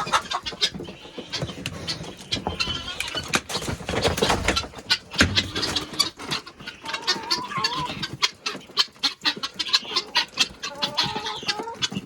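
A flock of chickens, with ducks and guinea fowl, clucking and calling while they feed, with a wavering call standing out about seven seconds in and again near the end. Many short, sharp clicks and taps run underneath, with heavier rustling in the first few seconds.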